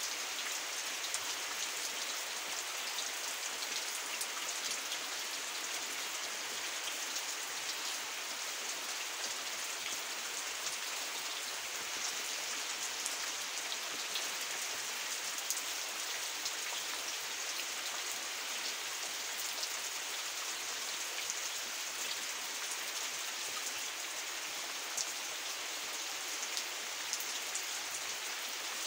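Steady heavy rain falling on standing floodwater, with scattered sharper drop hits close by.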